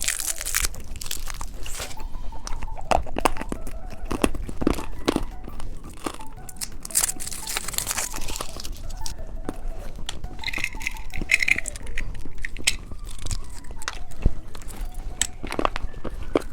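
Hard candy crunched and chewed close to the microphone: a steady run of sharp cracks and clicks, with some crinkling.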